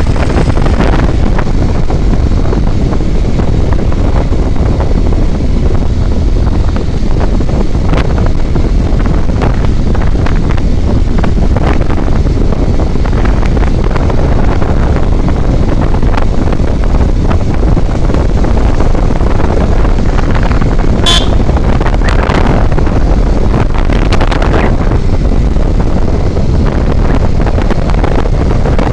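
Wind buffeting the microphone over steady road and engine noise from a vehicle driving on a highway. A brief horn toot sounds about two-thirds of the way in.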